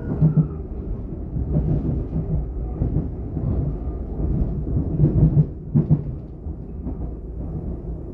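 DB class 422 electric multiple unit running, heard from inside: a steady low rolling rumble broken by several heavy knocks, loudest in a cluster about five to six seconds in.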